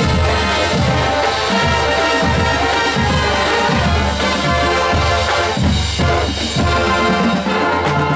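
High school marching band playing: full brass section over bass drums keeping a steady beat.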